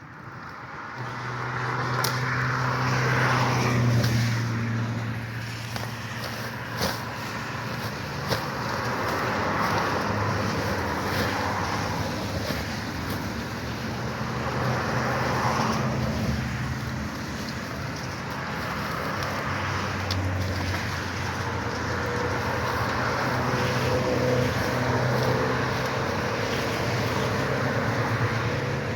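Car engine running while the car is driven, a steady low hum that shifts slightly in pitch, over road and wind noise.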